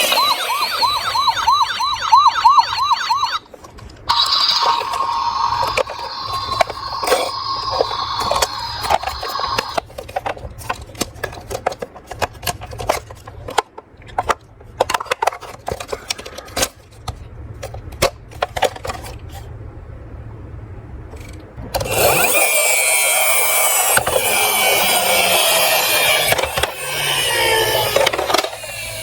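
Toy emergency-vehicle siren warbling fast for about three seconds, then a steadier siren tone mixed with clicks. After that comes a long run of sharp clicks and clatters as small toy cars roll and knock down a slope. Near the end there is a loud hissing rush with a falling tone.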